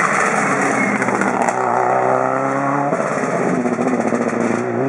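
A rally car's engine running hard at high revs as the car goes by on the stage. A broad rushing noise comes first, then a clear engine note, with a step in pitch about three seconds in like a gear change.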